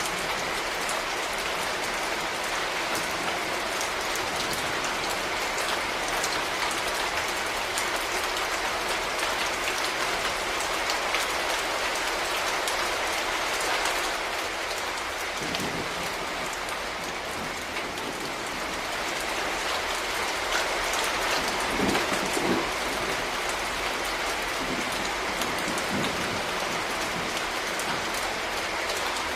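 Steady rain falling on a surface, with dense pattering drops. A few brief low rumbles come through around the middle and again past two-thirds of the way in.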